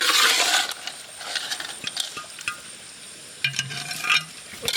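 Pork fat sizzling in a hot pan as it is stirred and scooped, with a loud burst of sizzling at the start and scattered clinks of a utensil against the pan.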